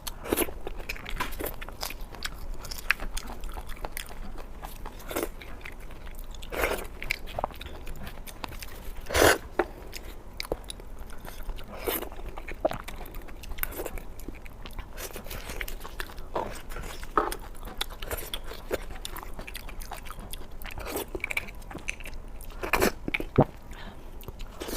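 Close-miked mukbang eating sounds: a person biting and chewing food, with irregular wet smacks and crunchy clicks. The loudest bites come about nine seconds in and again near the end.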